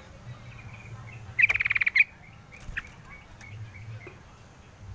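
Crucukan ngalas, a bird known by this Javanese name, giving one fast rattling trill of evenly repeated notes about a second and a half in, with a few faint short chirps afterwards.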